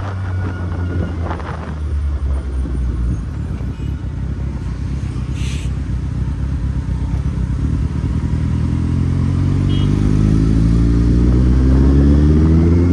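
Kawasaki Z800's four-cylinder engine running steadily, then rising in pitch for the last few seconds as the motorcycle accelerates.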